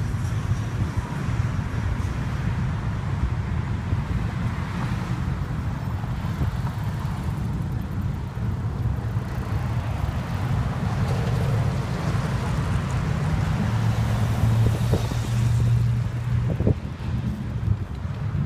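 Steady low rumble of car engines and street traffic, with wind buffeting the microphone. The rumble swells louder about three-quarters of the way through, as from a car close by.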